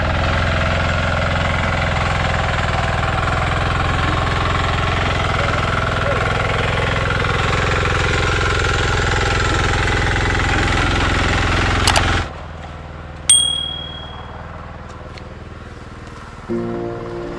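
Tractor engine running steadily under load while ploughing the wet paddy field, cutting off abruptly after about twelve seconds. A single ding follows, and music begins near the end.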